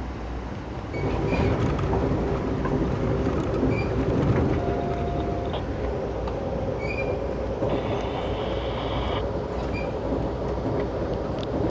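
Amtrak passenger train running along the track: a steady rumble of wheels on rail that grows louder about a second in, with scattered short high squeaks.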